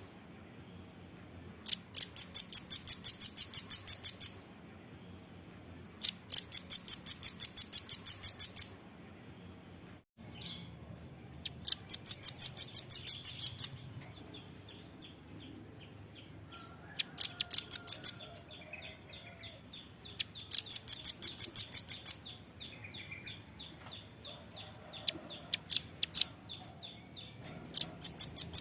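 Velvet-fronted nuthatch (red-billed nuthatch) calling: about six bursts of rapid, sharp, high-pitched chipping notes, each lasting one to three seconds, with short pauses between them.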